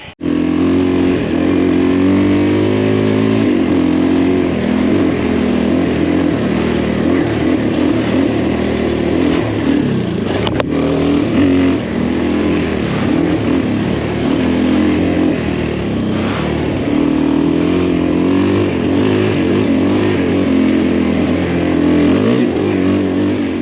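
Motorcycle engine running under way, its revs rising and falling, with a single sharp click about ten and a half seconds in.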